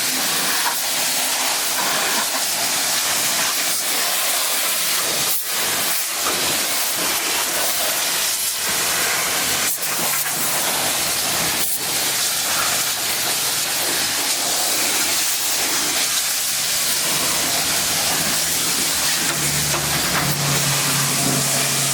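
Pressure washer spraying water into a truck's engine bay: a steady hiss with a few brief breaks in the spray.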